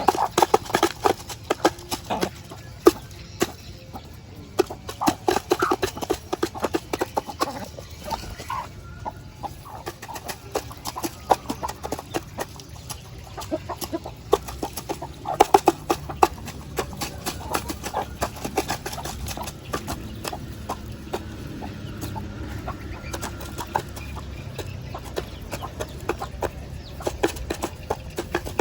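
Chickens clucking: many short clucks in busy clusters, loudest near the start and again about halfway through.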